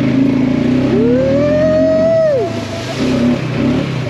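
A 570 cc ATV quad bike engine running steadily under the rider. About a second in, a long tone rises, holds and falls over about a second and a half.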